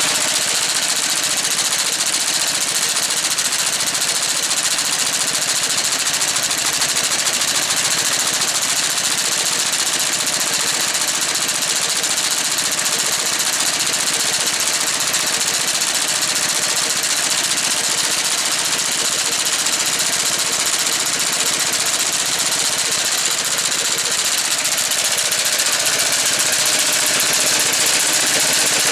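Motor Sich walk-behind tractor engine running steadily, driving an Artania MA 300 sickle-bar mower whose cutter bar is working.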